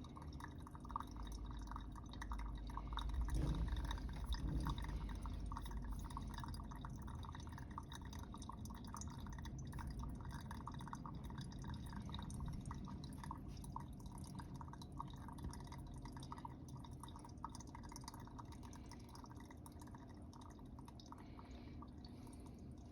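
Coffee dripping steadily through a metal filter into a Chemex carafe during a slow drawdown, which the owner blames on grounds ground too fine. A brief low rumble comes about three to five seconds in.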